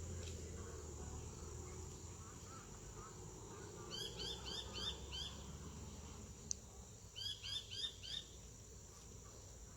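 A bird calling in two quick runs of about five chirps each, a few seconds apart. Under them runs a steady high insect-like hum and a low rumble.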